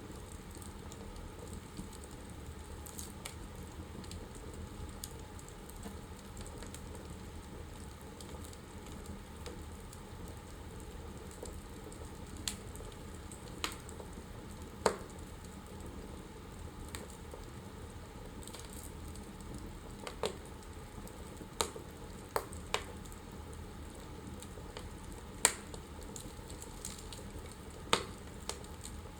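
Wood fire burning in a fireplace: a steady low hiss with scattered sharp crackles and pops from the burning logs, about a dozen, most of them in the second half.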